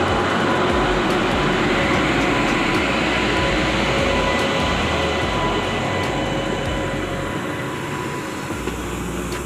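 Electric goods train passing slowly at close range, its wheels running steadily on the track. The sound eases off gradually over the last few seconds.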